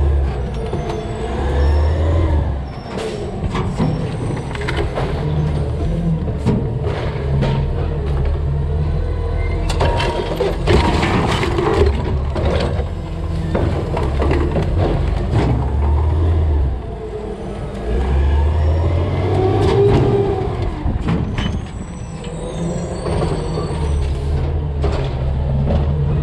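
Peterbilt 320 CNG DaDee Scorpion garbage truck working a collection, its engine rising and falling in repeated cycles as the hydraulics run. A gliding hydraulic whine and repeated knocks and crashes of garbage dropping into the hopper go along with it.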